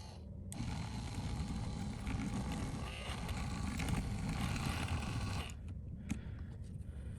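Scraping and rubbing as old adhesive is cleaned off an iPhone 14 Pro's OLED display after its front glass has been removed. It starts about half a second in and eases off near the end.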